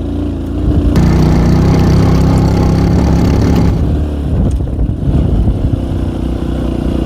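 K Moto ATX motorcycle engine pulling hard uphill under load, the revs rising about a second in and easing off a little around four seconds.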